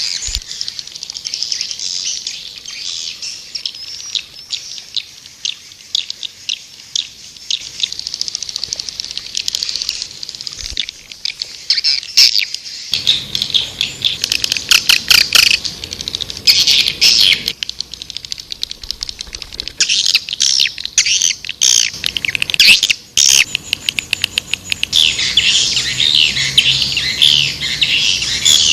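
White-nest swiftlets twittering in a dense, continuous chorus of high chirps, with trains of rapid sharp clicks, busier from about halfway through. This is a swiftlet calling sound, a recording played to lure swiftlets into a nesting house.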